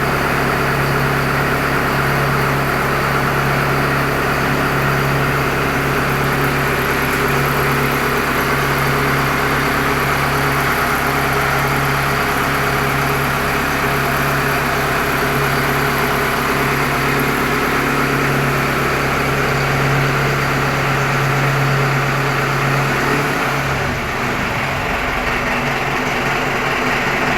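Engine-driven pump running steadily on test, its engine giving a constant hum. A few seconds before the end its note changes as the engine speed shifts.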